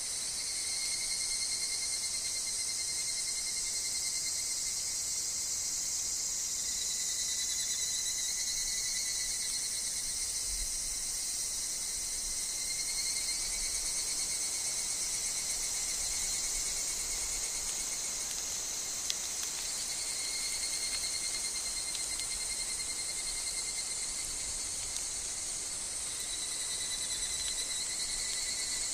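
Higurashi cicadas (Tanna japonica) calling in woodland: a dense, steady high-pitched insect chorus, with fainter calls that come and go beneath it.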